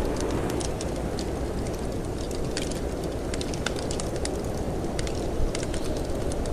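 Wood fire crackling in a fireplace, with frequent irregular sharp pops over a steady low rush of wind; one louder pop about five seconds in.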